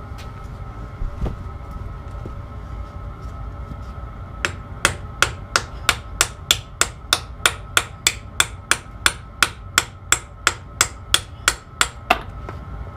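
Hammer striking steel in a steady run of about two dozen blows, roughly three a second, each with a short metallic ring; it starts a few seconds in and stops near the end.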